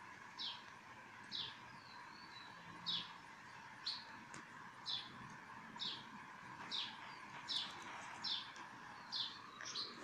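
A bird chirping faintly and repeatedly: a short, high, falling chirp about once a second.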